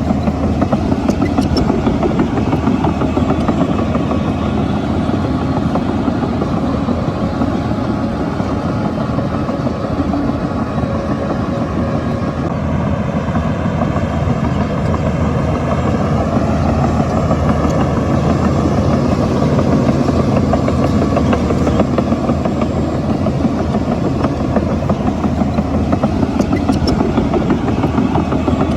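Shantui bulldozer's diesel engine running steadily while the dozer works, with the engine note shifting up and down around the middle.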